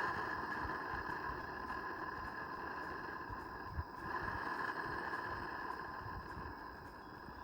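Gas burner of a Roundhouse live steam locomotive burning on full just after lighting: a steady hiss with a faint whistling tone, easing slightly near the end. A single short click about four seconds in.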